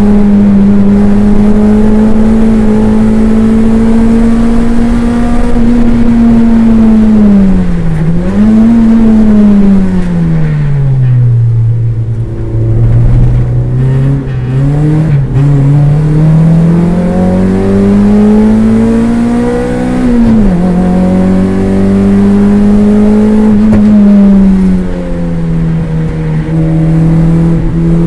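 Toyota MR2 race car's engine heard from inside the cabin at high revs. The pitch dips briefly about 8 seconds in, falls steadily for several seconds as the car slows, then climbs again. It drops suddenly at a gear change about 20 seconds in and steps down again near the end.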